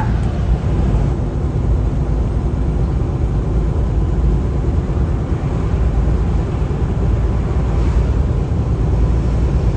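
Kenworth T680 semi-truck on the move, heard from inside the cab: a steady deep rumble of engine and road noise.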